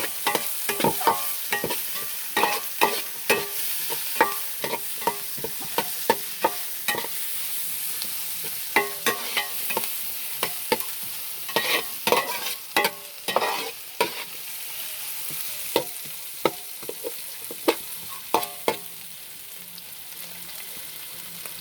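Onions and green chillies sizzling as they sauté in a pan, stirred with many irregular knocks and scrapes of the utensil against the pan over a steady frying hiss.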